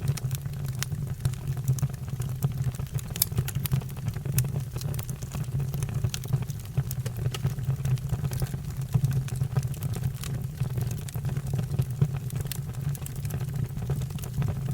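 Wood fire burning, with many sharp irregular crackles and pops over a steady low rumble.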